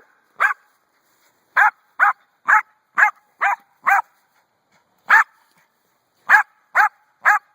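A dog barking: about eleven sharp, single barks, mostly about two a second, in runs broken by pauses of a second or more.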